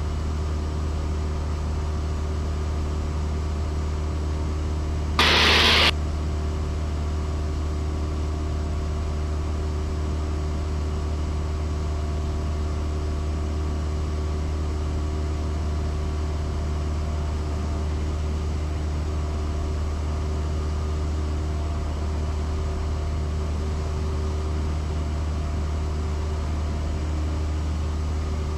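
Cessna 172S's four-cylinder Lycoming engine and propeller droning steadily in flight, heard from inside the cockpit. A brief burst of hiss cuts in about five seconds in and lasts under a second.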